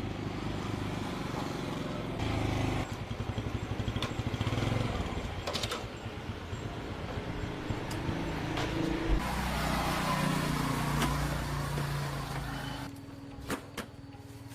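A motor running steadily, with a pulsing stretch about two seconds in; it drops away near the end.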